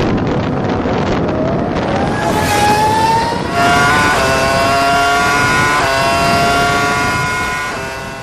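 Honda Dio scooter engine rising in pitch as it accelerates, then holding a steady high whine at speed, over rushing wind on the microphone. The sound fades away near the end.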